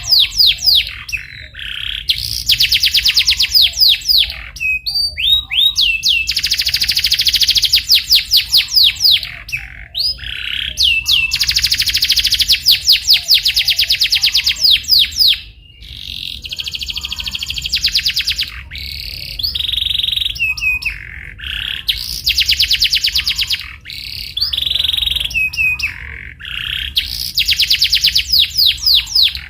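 Canary singing: long phrases of fast trills and rolling runs of rapidly repeated notes, broken by brief pauses and a few sliding whistled notes.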